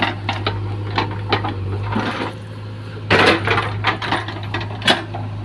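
A backhoe loader's engine runs steadily while its bucket loads mud into a tractor trolley, with a series of knocks and clanks. The loudest clatter comes a little past three seconds in, and there is one more sharp knock near five seconds.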